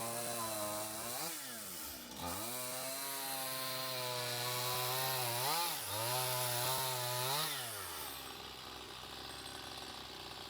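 Chainsaw running steadily while cutting, its engine note dipping briefly three times, then winding down and stopping about three-quarters of the way through.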